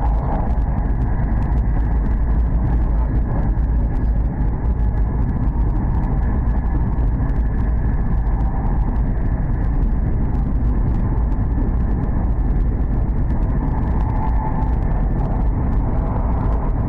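Running noise of a Hokuriku Shinkansen train at speed, heard inside the passenger cabin: a steady low rumble with a faint higher hum over it.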